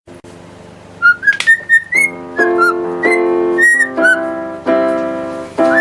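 A parrot whistling a tune in short, sliding notes, starting about a second in, while a piano plays chords. The chords come in about two seconds in, each struck and fading before the next.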